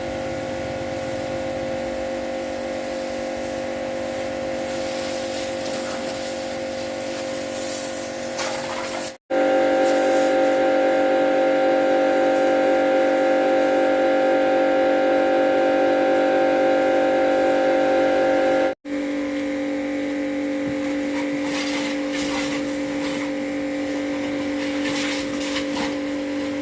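Old tractor engine running steadily at constant speed, heard in three cut-together stretches, the middle one louder.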